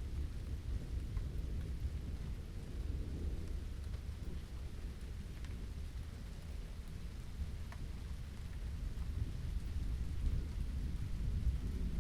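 Steady rain with a continuous low rumble underneath and faint scattered drop ticks.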